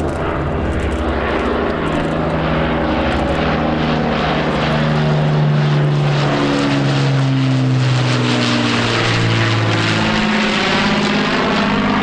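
Multi-engine propeller aircraft flying in on its approach, its engines running loudly together. Their notes waver and shift in pitch against each other as it comes in.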